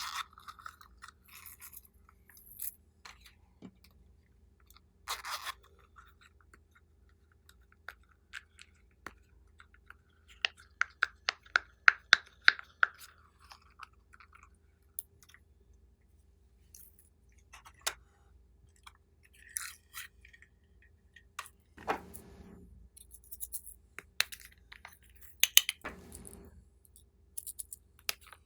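Slime being worked by hand, making sticky clicks and crackling pops, with a quick run of about five clicks a second in the middle.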